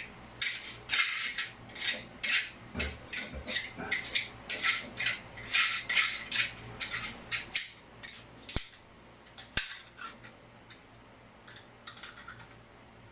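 Repeated rasping strokes of hand-tool work, about two a second, that stop after about seven seconds and are followed by two sharp clicks.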